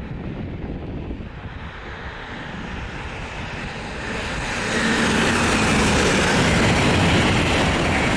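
Five-car Hull Trains Class 802 high-speed train approaching at line speed, a rushing noise that builds and gets loud from about four seconds in.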